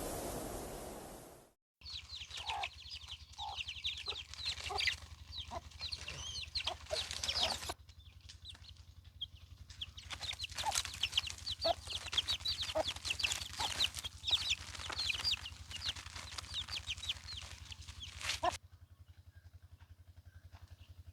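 Chickens calling in a farmyard: a dense run of short, high cheeps mixed with lower clucks. The calls start after a short hiss cuts off about two seconds in and stop abruptly near the end.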